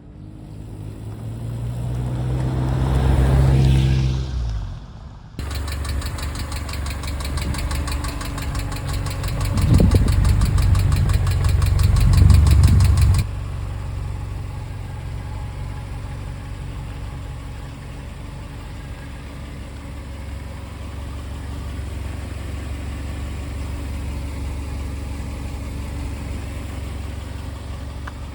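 Subaru EJ flat-four engine running in three spliced takes. First it revs up and falls away. Then it idles with a fast, even ticking and is blipped louder a couple of times: the noise of failing hydraulic lifters. From about 13 seconds in it idles smoother without the ticking, the sound after the lifters were replaced.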